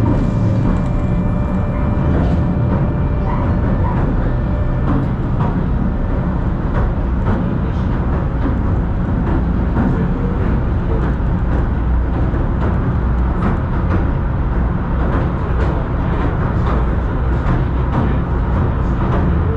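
Southend Pier Railway train heard from inside the carriage as it runs: a steady low rumble with scattered clicks and knocks from the wheels and carriage, and a faint whine in the first few seconds that fades away.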